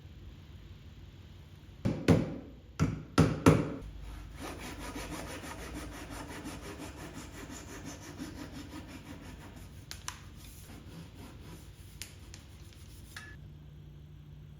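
Hand work on wood: three or four loud knocks about two seconds in, then steady, rapid scraping strokes against the wood for about nine seconds.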